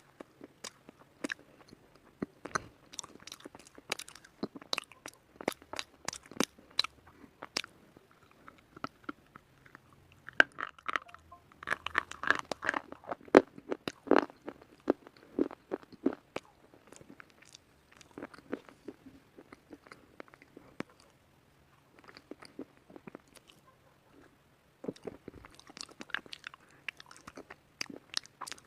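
A person biting and chewing white slate pencil: a string of sharp, crisp crunches and snaps, densest in the middle. They thin out and pause briefly about three-quarters of the way through, then resume.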